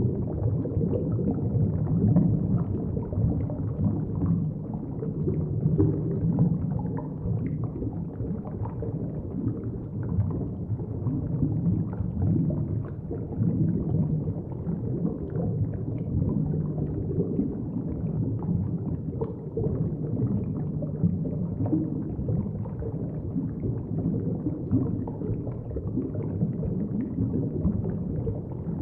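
Muffled, steady low rumble and gurgle of moving shallow water, heard through a submerged camera, with faint crackles scattered throughout.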